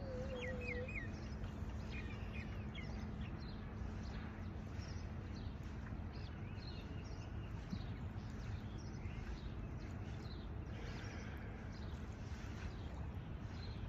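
Small birds chirping briefly a few times in the first three seconds over a steady outdoor background hiss.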